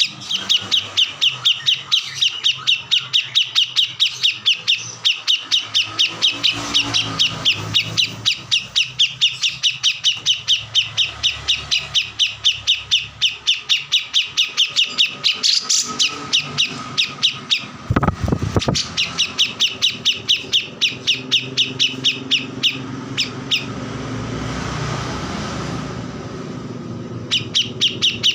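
A kores songbird singing without pause: a fast string of sharp, high repeated chirps, about five a second. The song breaks off for a few seconds near the end and then starts again.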